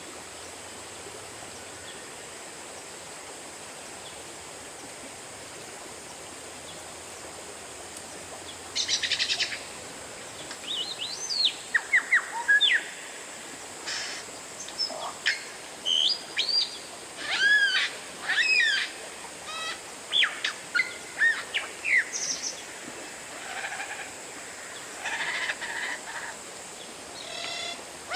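Oriental magpie-robin singing: after a stretch of steady background hiss, loud varied whistled phrases, slurred rising and falling notes and quick rattling trills start about nine seconds in and run on in bursts.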